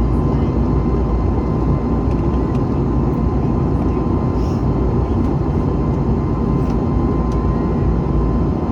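Airliner cabin noise during the climb after takeoff: a steady, loud, deep rush of engine and airflow with a thin steady high tone running through it.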